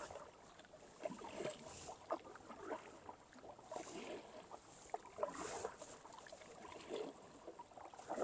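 Kayak paddle dipping and swishing through calm water in slow, quiet strokes about every one and a half to two seconds, with drips and small knocks in between.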